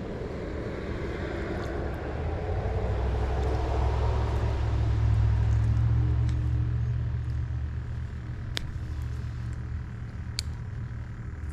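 A motor vehicle passing by: a low rumble that builds to its loudest about halfway through, then fades away. Two sharp clicks come near the end.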